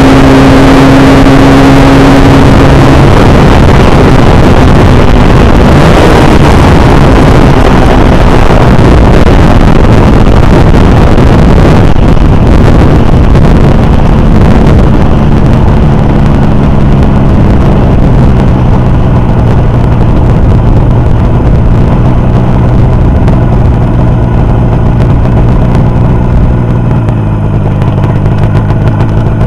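Motorcycle engine on a test run, very loud: it runs at a steady speed, is revved hard for about ten seconds, then settles back to a steady speed that drops lower near the end.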